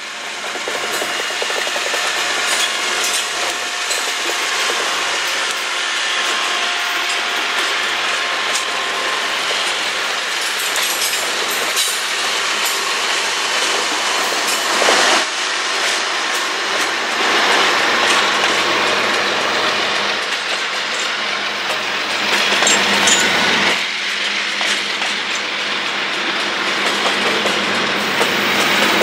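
Freight train passing close by: diesel locomotives go past, then flatcars, with steel wheels clattering and cars rattling in a steady, loud rush that builds up within the first second.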